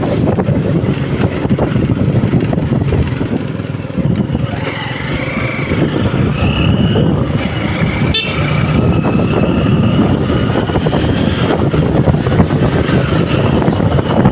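Vehicle engine running with wind buffeting the microphone while travelling along a street.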